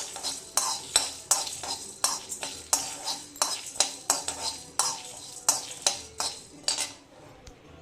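Spatula stirring and scraping whole spices in a pan as they dry-roast for a sambar masala: sharp scrapes and clinks about three a second, stopping about seven seconds in.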